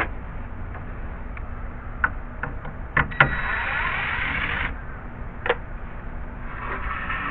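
Boxes being handled and moved: scattered light knocks and clicks, and in the middle a scraping slide lasting about a second and a half that stops abruptly.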